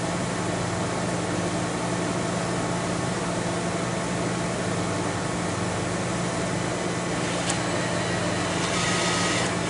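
Steady fan noise with a constant low hum and airy hiss, the sound of a portable air conditioner running. A faint brief tone sounds near the end.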